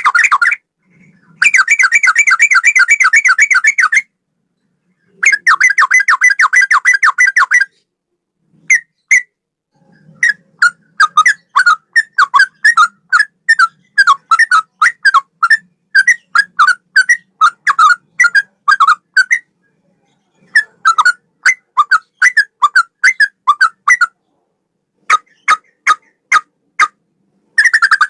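Sooty-headed bulbul singing a straw-headed bulbul–style song: dense trilled phrases about two seconds long, then runs of quick, separate whistled notes, several a second, broken by short pauses.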